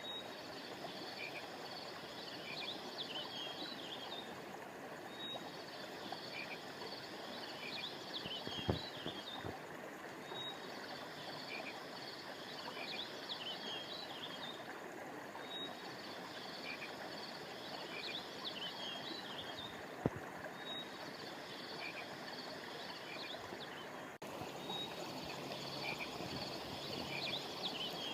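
A stream flowing steadily under a chorus of frogs, whose high rapid calls come in spells that repeat about every five seconds with short gaps between. There are two faint clicks, and a brief dropout about 24 seconds in.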